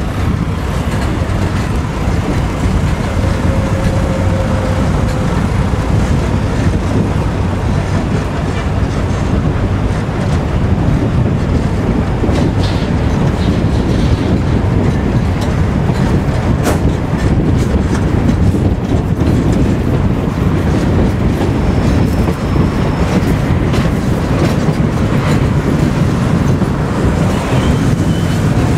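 Zillertalbahn narrow-gauge passenger train running along the track, heard from an open carriage window. Its steady rumble carries scattered sharp clicks of the wheels over the rails.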